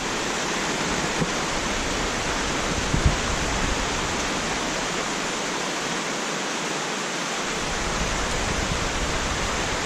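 Heavy tropical rain pouring down in a steady, dense hiss, with a small knock about three seconds in.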